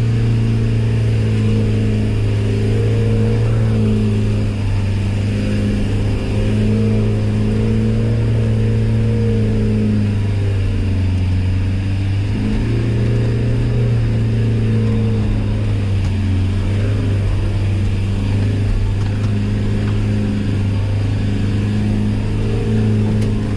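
Land Rover Defender 90's engine running steadily at low revs as the vehicle crawls along a rough dirt four-wheel-drive track, its pitch dipping briefly about halfway through and then picking up again.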